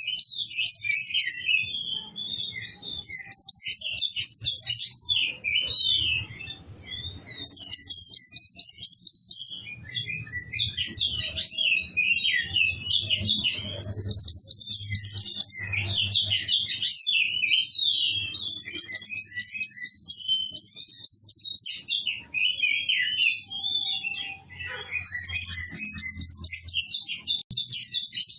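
Kowul songbird singing in full, continuous song (gacor): fast high buzzy trills, each about a second and a half, repeated again and again and alternating with jumbled twittering phrases.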